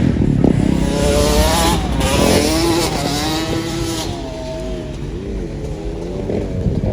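A car engine revving up and down as the car spins donuts, over a steady rush of tyre noise.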